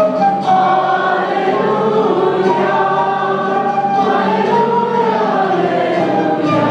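Church choir singing in sustained, held notes.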